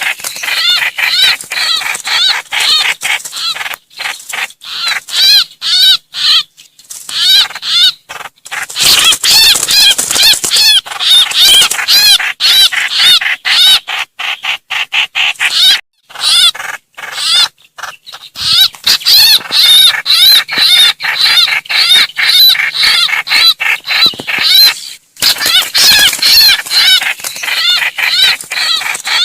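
Trao trảo bird's distress calls, given as a call to its flock: loud, harsh, arched notes repeated very rapidly in long strings, with a few brief breaks.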